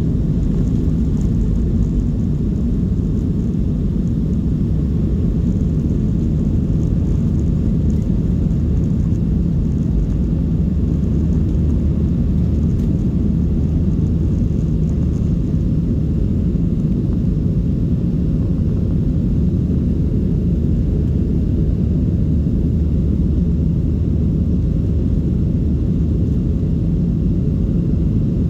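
Steady low rumble of a Boeing 737-700's CFM56-7B jet engines and rushing air, heard inside the passenger cabin, holding even, with a faint steady hum above it.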